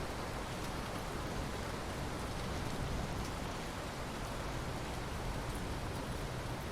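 Steady rain falling, an even hiss with faint scattered drop ticks and no distinct thunder clap.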